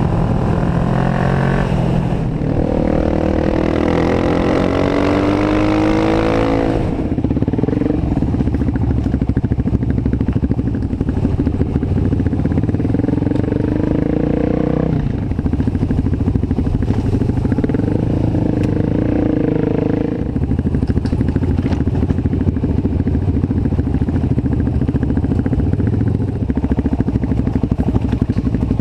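Kawasaki Ninja 650R parallel-twin engine in a custom off-road motorcycle, running and revving. Its pitch climbs and falls several times, with stretches of steadier running between.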